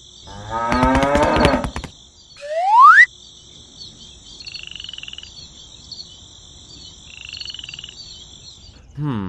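A bullock mooing, then a sharp rising whistle that cuts off suddenly, then a steady high chirring of insects with frogs croaking in two short pulsed runs.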